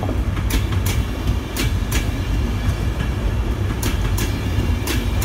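LNER passenger train rolling past at close range: a steady low rumble, with wheels clicking over rail joints, several of the clicks in pairs.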